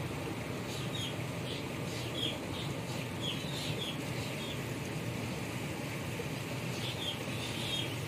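Small birds chirping: a string of short, quick chirps through the first half and a few more near the end, over a steady low rumble of machinery.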